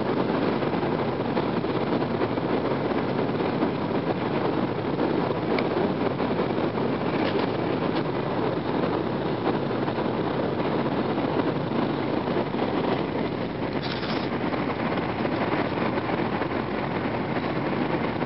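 Cabin noise of an N700 series Shinkansen in motion: a steady, even rush of running noise. There is a short, higher hiss about fourteen seconds in.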